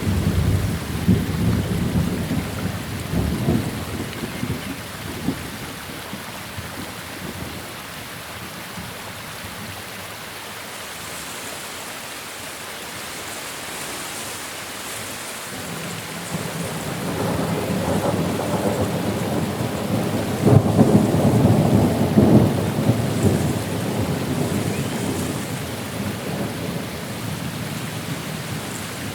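Steady rain with two rolls of thunder: one rumbling away over the first few seconds, and a second that builds from about halfway, peaks with a few sharp cracks and slowly fades.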